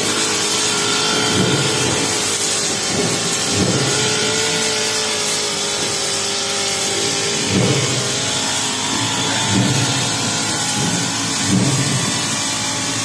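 Honda four-stroke brush cutter running steadily at high throttle with a metal blade cutting tall grass, its low rumble swelling every two seconds or so.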